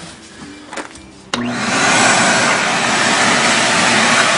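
Shop vacuum switched on about a second in, spinning up quickly and then running steadily while it vacuums debris out of the engine.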